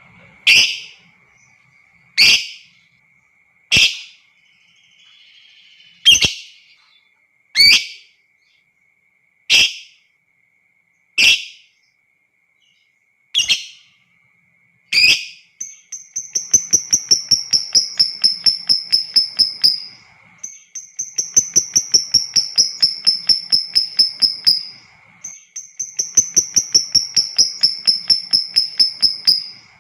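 Lovebird calling. First come single sharp shrieks, one every second and a half to two seconds. About halfway through, the calls change to long, rapid chattering trills of about four seconds each, three in a row with short pauses: the long 'ngekek' trill of a male lovebird in song. A faint steady high whine runs underneath.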